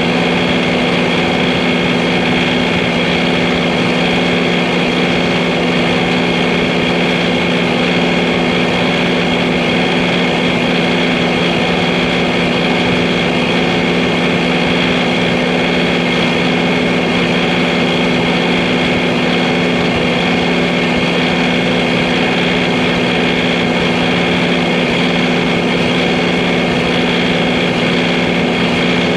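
John Deere 3043D compact tractor's three-cylinder diesel engine running at a steady, unchanging speed.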